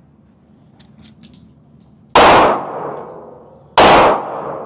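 Two handgun shots about a second and a half apart, each sharp and loud with a long echoing tail, preceded by a few light clicks of gun handling.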